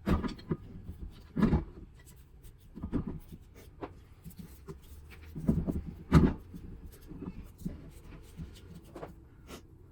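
Heavy steel parts handled against each other: irregular clunks and scraping as a Dana 60 steering knuckle and spacer are shifted into place on a ball joint press clamped in a bench vise. The loudest clunk comes about six seconds in.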